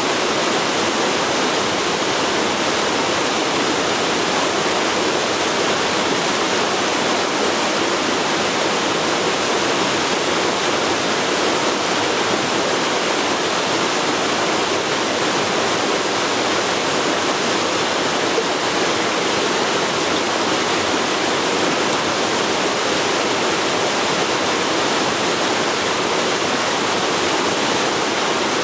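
Forest river flowing, a steady full rush of water with no breaks.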